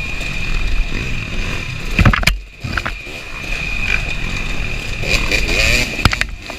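KTM 300 two-stroke dirt bike engine revving up and down as it is ridden hard over rough trail, with a few sharp knocks from the bike, and a brief drop in engine sound a little after two seconds in.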